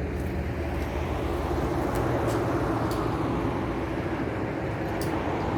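Self-serve car wash equipment running: a steady low hum under a noisy hiss, with a few faint clicks.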